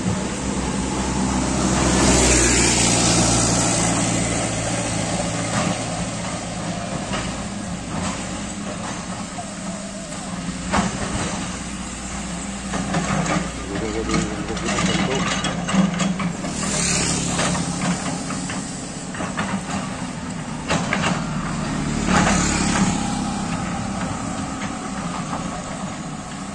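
Backhoe excavator's diesel engine running steadily, swelling louder three times as it works, with scattered knocks and clanks in between.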